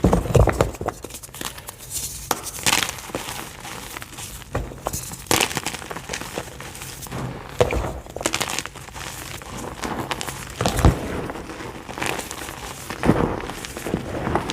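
White gym chalk (a soft, buttery block) being crushed: a soft, crumbling crackle with a firmer crunch every two or three seconds.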